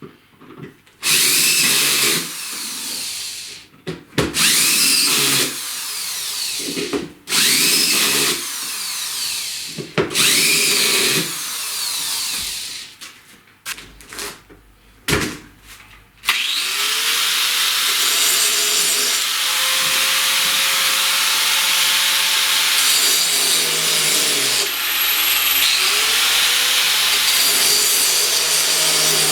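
Electric drill running in four short bursts of about two seconds each, its motor pitch changing within each burst, then running steadily for a long stretch.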